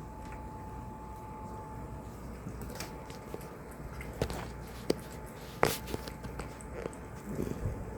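Chewing and crunching of food: a run of sharp irregular clicks that begins a few seconds in, the loudest a little past halfway, over a steady low rumble.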